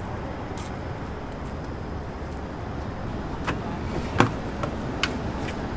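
Steady car noise, a low even rumble, with a few sharp clicks and one louder knock about four seconds in.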